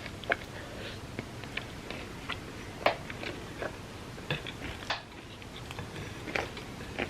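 Close-miked mouth sounds of someone eating milk-soaked chocolate cake: irregular sharp clicks and wet smacks of chewing, over a steady low hiss.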